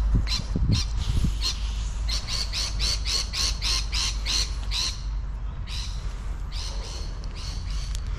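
A bird giving a rapid series of harsh squawking calls, about four a second, in two runs with a short break in between.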